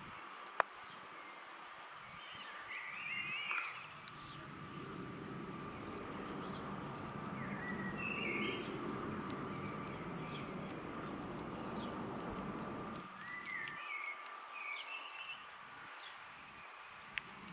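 Songbirds chirping in short bursts of phrases, over a low rushing noise that swells for several seconds in the middle. A single sharp click comes just after the start and another near the end.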